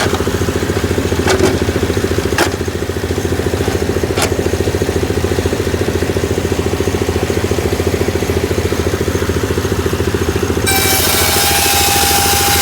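Small engine driving a model sawmill, running steadily with a fast, even pulsing and a few sharp clicks in the first few seconds. About ten and a half seconds in, a louder, high-pitched hiss with a whine joins suddenly as the saw machinery comes into play.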